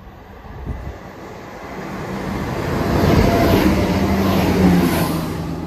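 Chiltern Railways diesel multiple unit approaching and passing close by along the platform, its engine note and the rumble of wheels on the rails building up to a peak a few seconds in.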